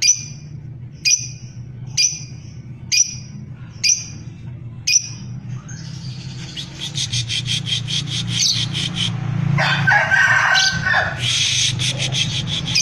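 Female lovebird calling: sharp single chirps about once a second, then about six seconds in breaking into a fast, continuous chattering trill (the long 'tarik' or 'ngekek' song). A steady low hum runs underneath.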